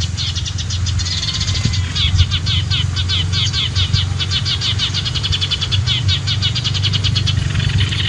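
Small birds chirping rapidly, a dense run of short high chirps, over a low steady hum.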